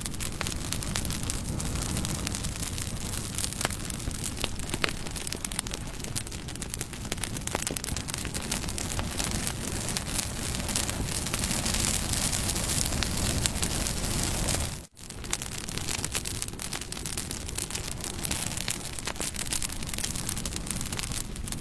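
Campfire burning with a steady rush of flame, dotted with crackles and sharp pops of burning wood. About fifteen seconds in, the sound drops out for a moment and then comes back.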